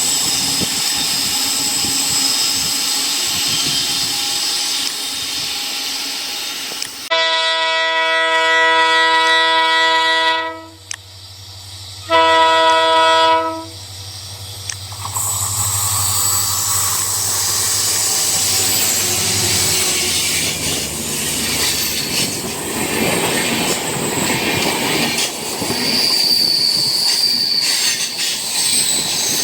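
Diesel locomotive horn sounded twice, a long multi-tone blast then a shorter one, over the noise of a passing train. The low drone of the diesel engine follows, then the rumble of the coaches rolling by, with a brief wheel squeal near the end.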